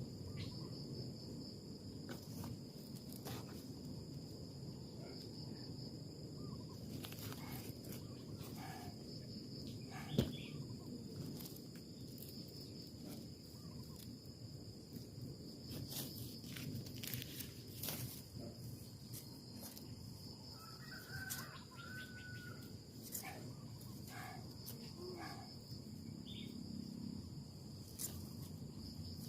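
Outdoor natural ambience: a steady high insect drone over a low rushing hiss, with scattered clicks and rustles, one sharp click about ten seconds in, and a few short bird chirps about two-thirds of the way through.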